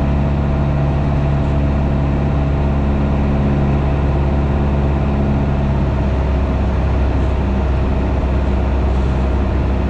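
Piper PA-28's piston engine and propeller droning steadily in flight, heard in the cockpit. About six seconds in, its steady low tones give way to a rougher hum.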